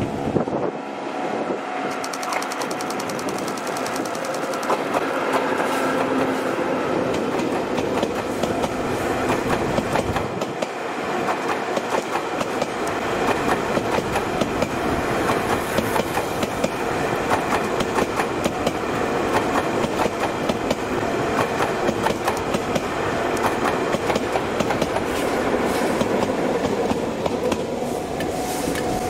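Train passing close by: a Chichibu Railway electric locomotive hauling a rake of new, unpowered Tobu 500 series Revaty cars, the wheels clacking steadily over rail joints, with the clacks coming thicker and louder from about halfway through.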